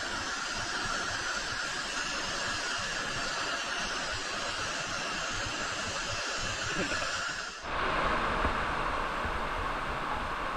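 Steady rush of falling river water in a canyon. About seven and a half seconds in, it cuts off abruptly to a slightly louder rush of the same kind.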